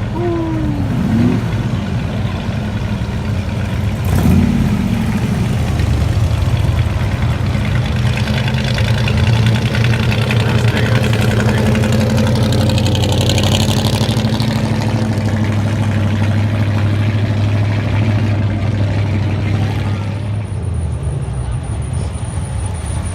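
Car engines idling in a steady low rumble. The rumble drops away about twenty seconds in.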